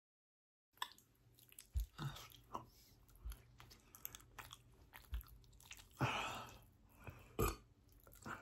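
A person chewing and biting pieces of a giant Hershey's chocolate bar close to the microphone, starting about a second in: soft clicks, small thumps and wet mouth sounds, with a brief louder rush of noise about six seconds in.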